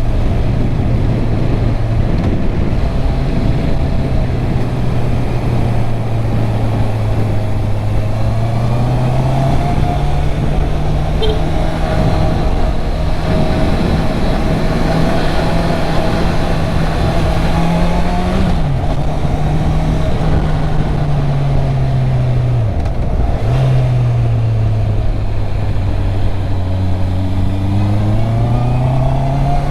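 Stock Honda CB650R inline-four engine running under way, its note rising and falling with the throttle, dipping sharply twice in the second half and climbing again near the end.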